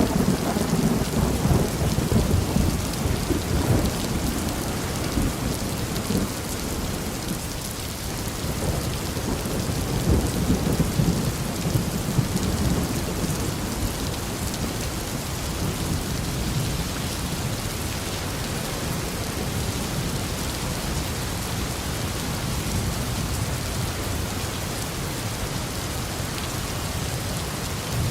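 Steady heavy rain with rolling thunder: low rumbles in the first few seconds and again about ten seconds in, then the rain alone carries on.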